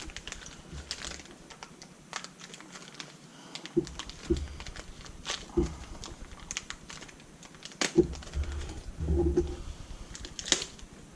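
Small parts being handled: a plastic parts bag rustling and crinkling, with light clicks and a few dull knocks of metal parts set down on the bench.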